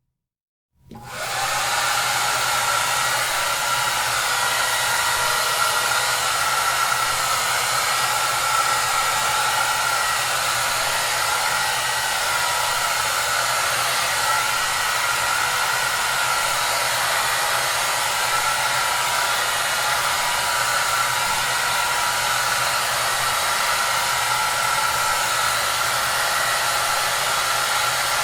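Hair dryer blowing: a steady, even rushing noise with a faint low hum, starting abruptly after a moment of silence about a second in.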